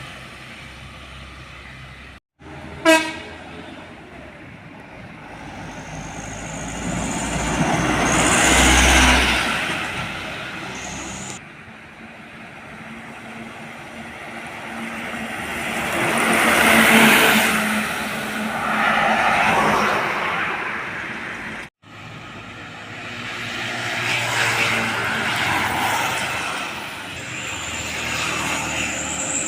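Heavy trucks passing one after another on a road, each swelling to a peak and fading away. A short, loud horn blast comes about three seconds in.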